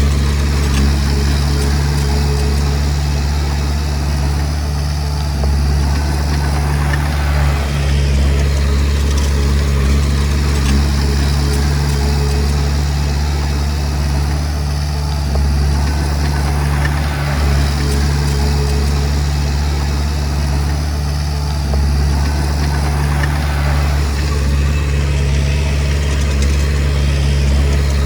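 Komatsu D20P bulldozer's diesel engine running steadily at close range, with a deep, even engine tone and only small rises and falls in level.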